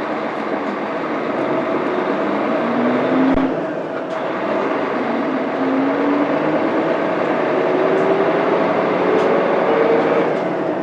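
Mitsubishi Fuso Aerostar bus with a 6M70 inline-six turbo diesel and five-speed manual gearbox, pulling away and accelerating. The engine note rises, drops briefly about three and a half seconds in at a gear change, then rises steadily again in the next gear.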